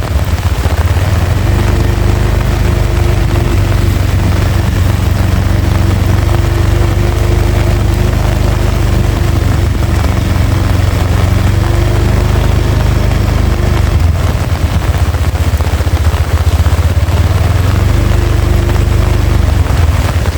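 Heavy rain pouring steadily, with a loud low rumble of strong wind on the microphone. A faint steady hum comes and goes underneath.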